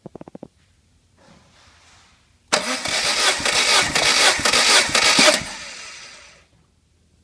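Honda D13B 1.3-litre SOHC four-cylinder engine being cranked over by its starter for about three seconds, a rough pulsing spin typical of a compression test. The noise then winds down and dies away. A quick run of clicks comes just before.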